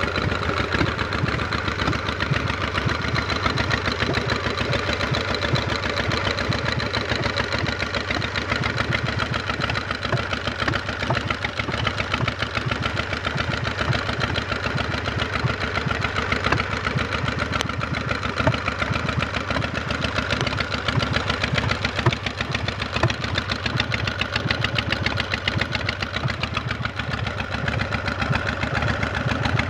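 Custom Harley chopper motorcycle's V-twin engine idling steadily, with no revving.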